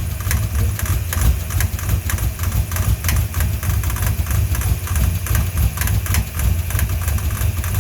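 Ford 5.0 V8 idling with a clatter of repeated clicks from the serpentine belt drive. The owner puts the clatter down to the belt: after the smog pump delete a 90-inch belt was fitted where an 89.5-inch one is needed, so it is slightly too long.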